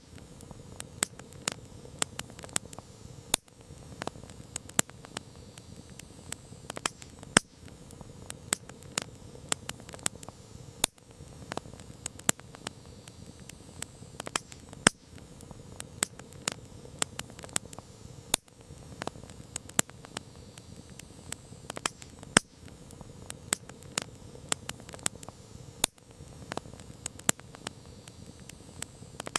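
Campfire crackling: burning wood gives off irregular sharp pops and snaps, several a second, over a low steady hiss of the flames.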